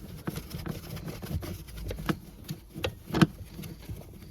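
Scattered small clicks and knocks of a screwdriver being handled and worked on a Torx screw holding down a car's battery cover, with one sharper click about three seconds in.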